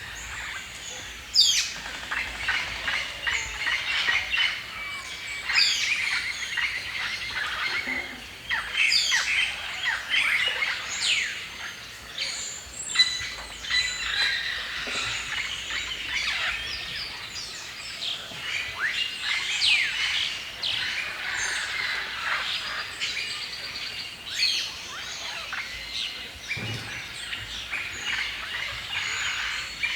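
Many birds chirping and singing at once, a dense chorus of short chirps and quick sweeping whistles that overlap without a break.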